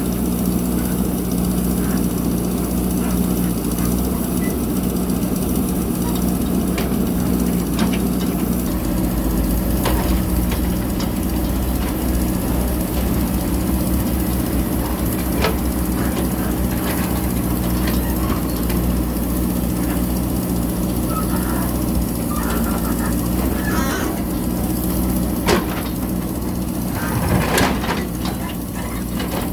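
JCB backhoe loader's diesel engine running steadily as it works, with scattered knocks and clatters of the bucket and soil, more of them near the end.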